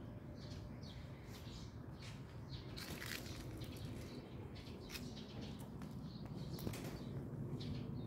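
Small birds chirping in short, scattered high calls over a steady low background rumble, with a brief burst of noise about three seconds in.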